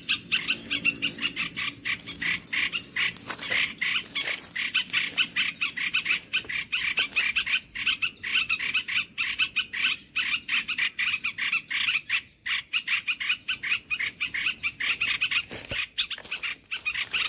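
Bird-trapping lure call played on a loudspeaker: a fast, unbroken run of harsh chattering notes, several a second, meant to draw in merbah belukar (olive-winged bulbul). A few sharp knocks sound over it.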